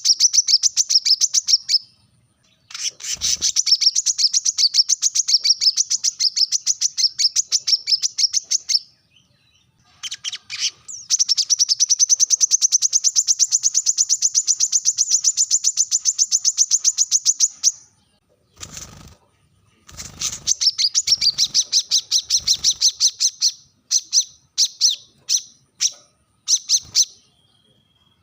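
Brown-throated sunbird singing: long, rapid trills of sharp, high chips in bouts of several seconds separated by short pauses, breaking into shorter phrases near the end.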